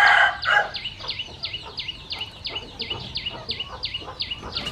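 A baby bird peeping over and over, short falling chirps at about three a second. A louder, lower chicken call overlaps it at the start.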